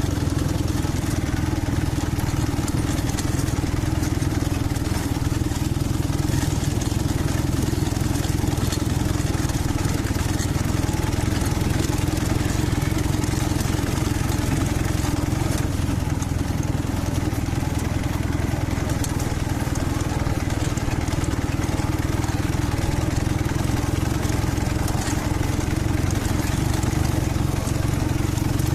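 Dnepr MT-11 motorcycle's flat-twin engine running steadily at an even pitch, freshly tuned with new spark plugs, adjusted carburettors and reset ignition.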